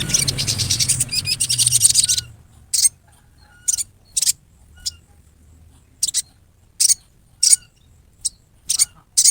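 Sogon bird giving harsh 'riwikan' calls: a rapid, harsh chattering rattle for about two seconds, then a string of short sharp single calls about every half second to a second. These are the rough calls used to provoke other sogon birds into calling.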